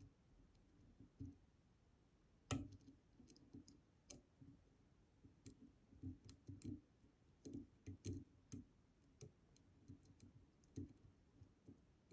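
Faint, irregular small clicks of a picking tool working the rotating disks of a DOM Diamant disk detainer lock, with one louder click about two and a half seconds in.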